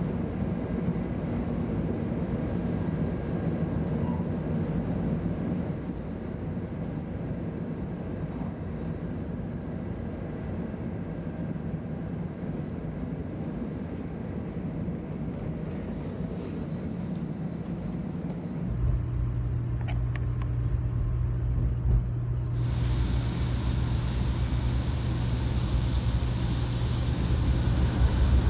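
Running noise inside a 500 series Shinkansen carriage: a steady rumble from the train. About two-thirds of the way through it turns deeper and louder, and a few seconds later a hiss is added on top.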